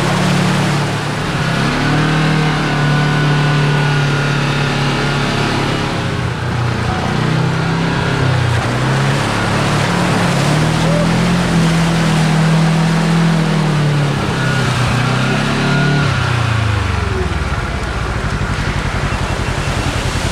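A Kawasaki KRX4 1000 side-by-side's engine driving along a trail, its pitch rising and falling with the throttle. It eases off to a lower note about three-quarters of the way through. Wind and trail noise run underneath.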